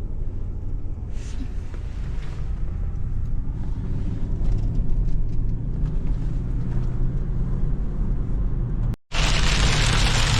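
Steady low road and engine rumble inside a moving car. About nine seconds in, after a brief dropout, a loud even hiss takes over.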